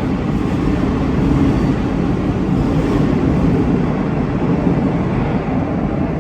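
Madrid Metro train running through an underground station: a loud, steady rumble.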